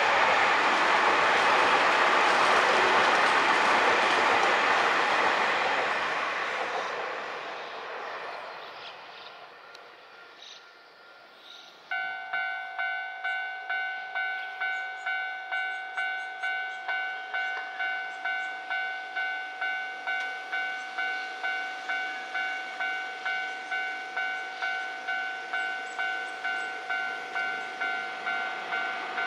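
Keio Inokashira Line 1000 series electric train passing and fading away over several seconds. About twelve seconds in, a railway level crossing warning bell starts abruptly, a two-tone electronic ding repeating about twice a second, signalling the next train.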